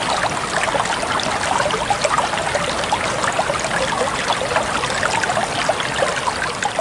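Many short, scattered chirps from grey-headed babblers over a steady rush of flowing water, the chirps coming thick and overlapping with no clear rhythm.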